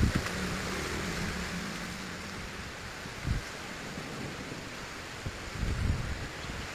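Strong wind blowing through a garden: a steady rush of noise, with gusts buffeting the microphone about three seconds in and again near the end.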